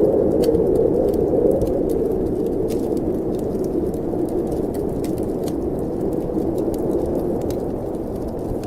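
Snowstorm wind blowing steadily with a low moan, easing slightly, over the sparse crackle and snap of a wood fire in a fireplace.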